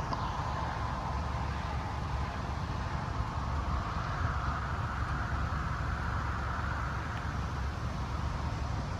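Steady road and engine noise inside a moving car's cabin, a low, even rumble with no change.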